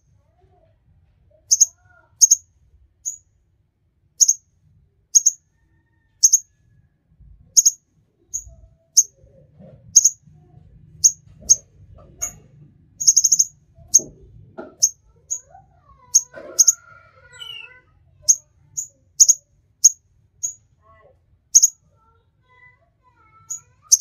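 A small songbird giving short, sharp, high chirps, about one or two a second, a few of them run together into a quick trill.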